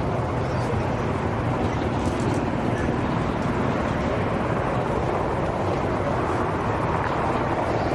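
Aircraft engines running with a steady, unbroken noise.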